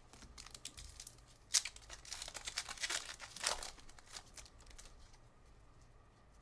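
A trading card pack wrapper being torn open and crinkled, a dense crackling run that starts sharply about a second and a half in and dies away a couple of seconds later, with a few light ticks of card handling around it.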